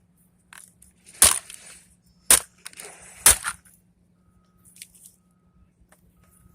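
Three hard hammer blows about a second apart, knocking at a computer part being broken apart for scrap, followed by a few faint small knocks.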